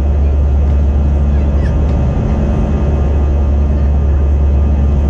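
Steady low drone of an Airbus A321 in the climb, jet engines and airflow heard from inside the passenger cabin.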